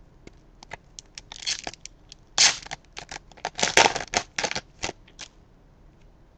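Trading cards being handled and slid against one another: a run of quick clicks and short scraping rustles.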